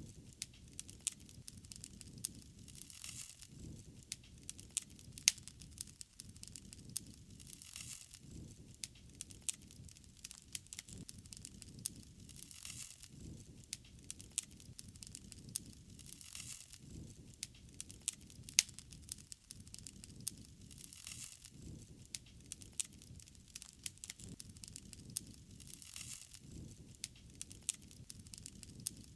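Wood fire crackling: frequent sharp pops and snaps of uneven loudness over a faint low rush that swells about every four to five seconds.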